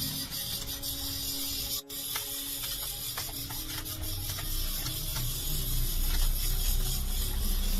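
A machine running steadily with a hiss and a faint pattering of clicks, broken by a very brief dropout about two seconds in.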